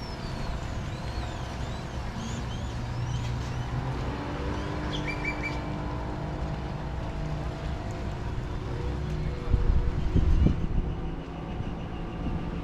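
A boat motor running steadily in the harbor, a low hum with several held tones, alongside water and air noise. Small birds chirp a few times in the first five seconds, and a brief, loud low buffet of wind on the microphone comes about ten seconds in.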